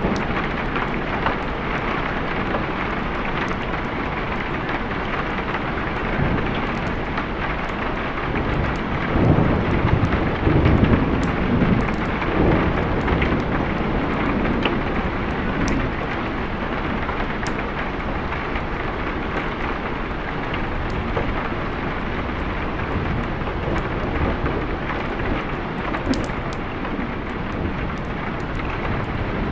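Steady heavy rain with low rolling thunder that swells up in the middle and then fades back under the rain.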